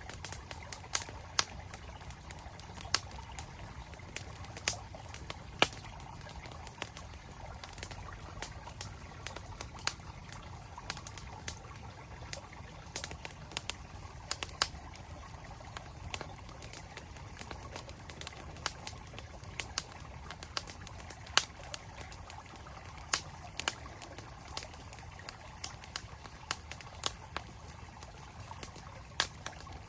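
Campfire crackling with many irregular sharp pops over the steady rush of a flowing stream.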